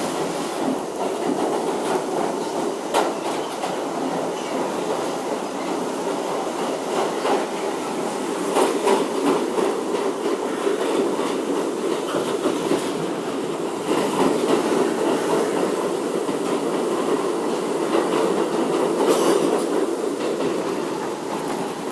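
R62A subway car of the 7 train running through the tunnel, heard from inside the car: a steady rumble of wheels on rail, with occasional clicks over rail joints.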